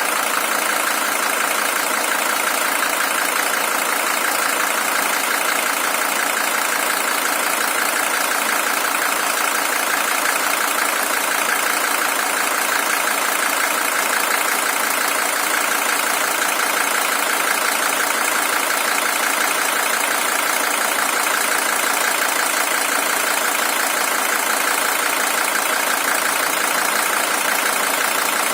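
Mercedes-Benz OM617 five-cylinder diesel engine of a W123 300TD, original with about 620,000 km, idling steadily with its even diesel clatter.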